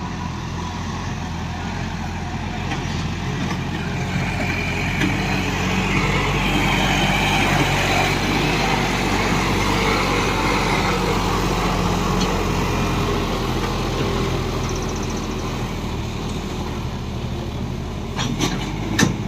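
John Deere tractor's diesel engine running steadily under load, growing louder in the middle and easing off again, with a few sharp knocks near the end.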